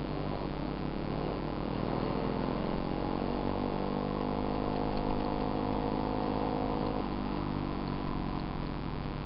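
Small dirt bike engine revving, its pitch climbing slowly over several seconds, then dropping back abruptly about seven seconds in.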